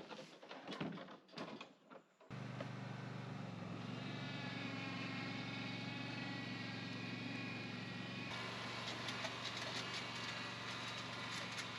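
A few scattered clicks and knocks, then from about two seconds in a small motor running at a steady speed with an even hum to the end.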